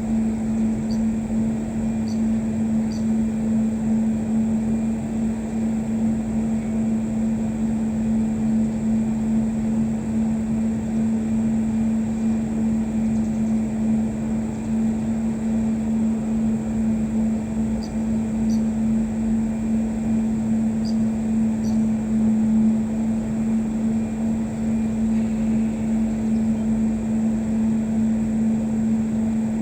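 A steady motor drone with one strong low, even tone, unchanging throughout. Faint short high chirps come a few times, near the start and again about two-thirds of the way in.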